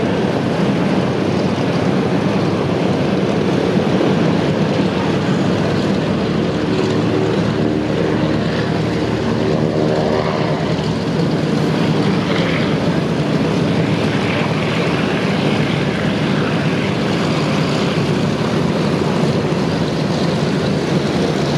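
Radial piston engines of DC-3 Dakota / C-47 aircraft running in a steady, loud drone with propeller noise. A tone swells and fades around the middle.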